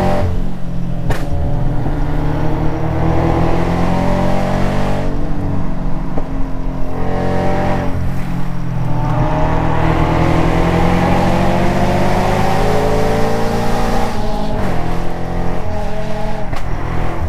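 Car engine under hard acceleration on a twisty road, its note climbing steadily and dropping back at gear changes about 5, 7 and 14 seconds in.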